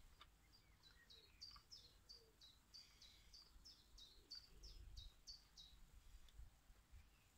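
A small bird singing faintly: a run of short, high notes, each falling in pitch, repeated about three times a second for about five seconds.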